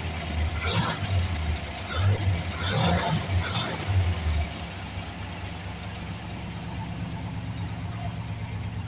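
Ford Thunderbird's engine running, with several short, louder surges in the first half, then settling to a steady idle.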